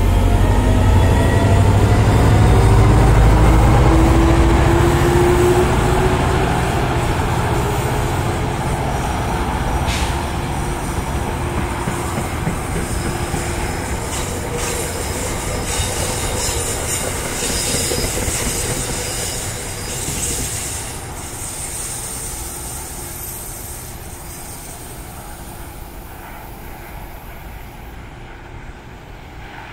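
NJ Transit commuter train passing and pulling away: a heavy low rumble at first, then rolling wheel noise with a thin high wheel squeal in the middle, fading steadily as the train recedes.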